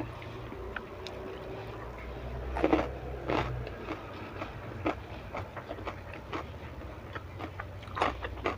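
Chewing and mouth sounds of a person eating sambal tempeh and rice by hand: a run of short wet clicks and crunches, louder about three seconds in and again near the end, over a steady low hum.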